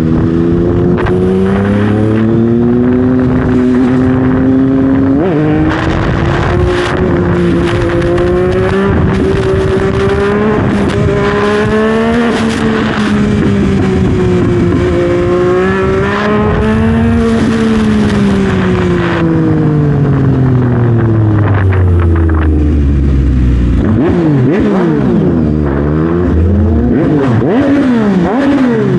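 Yamaha MT-09's 890 cc three-cylinder engine through a full Dominator exhaust, riding with the pitch rising and falling as it accelerates and shifts. It drops in a long deceleration from around two-thirds of the way in, then blips up and down in quick revs near the end.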